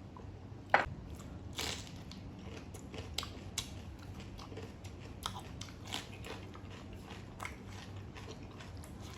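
A person biting and chewing cooked chicken close to the microphone, with irregular crunchy clicks. One sharp click a little under a second in is the loudest.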